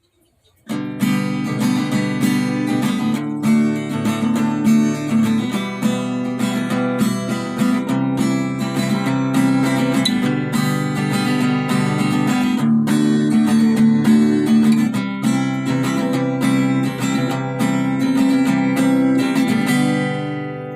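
Intro music of strummed acoustic guitar in a steady rhythm, starting about half a second in and fading out near the end.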